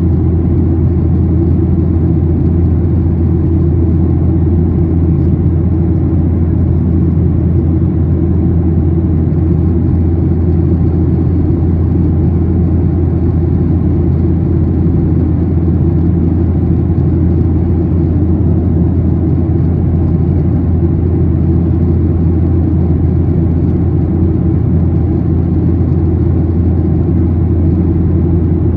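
Steady cabin drone of a Boeing 737-800 in cruise, its engines and airflow heard from inside the passenger cabin: a deep, unchanging rumble.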